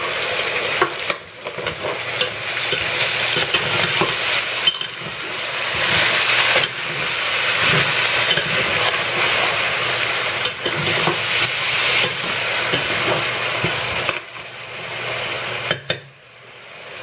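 Chicken sizzling in hot oil with fried onion and spices in a pot while it is stirred, the spoon clicking and scraping against the pot now and then. The sizzle drops away near the end.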